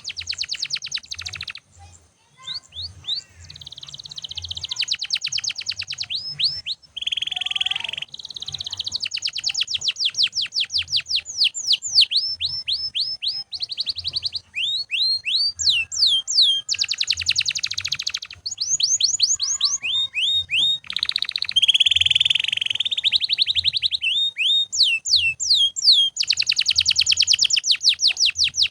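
Domestic canary singing without pause: long fast trills of rapidly repeated notes alternating with strings of quick downward-sliding whistled notes, high-pitched.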